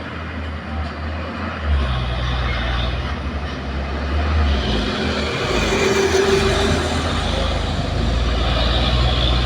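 Heavy truck engine running under load up a steep climb, its low drone shifting in pitch about two seconds in and again around five seconds.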